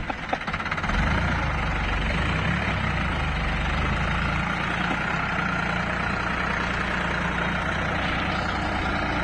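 Large diesel engine idling steadily with a low, even throb.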